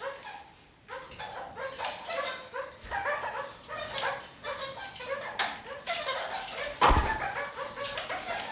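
Red-crowned kakariki chattering, a run of short repeated calls. A single sharp knock about seven seconds in.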